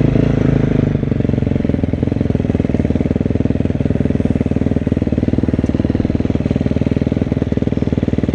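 Motocross bike engine running at low revs, easing down about a second in and then ticking over steadily at idle.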